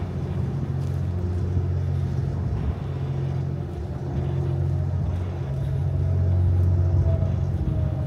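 Steady low hum and rumble of the Twilight Express Mizukaze, a JR West 87 series diesel-electric hybrid train, standing at the platform; it grows a little louder about six seconds in.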